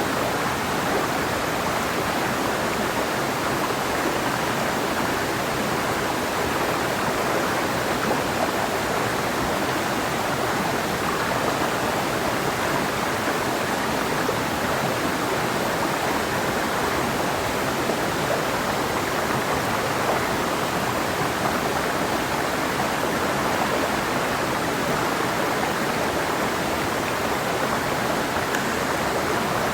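Clear mountain river flowing over rocks: a steady, unbroken rush of water.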